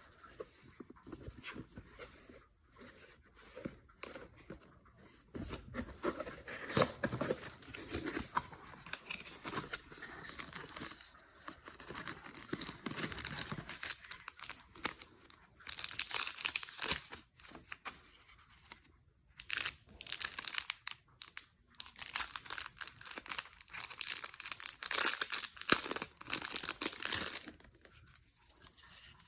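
Intermittent crinkling and rustling of crinkly material being handled, in irregular bursts that are busiest in the second half.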